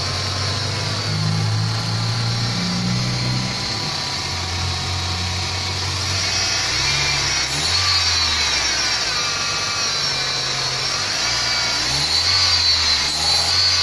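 Chevrolet Astra 1.8-litre eight-valve four-cylinder engine idling steadily, with a constant high whine above the engine note. The pitch wavers briefly twice, around the middle and near the end.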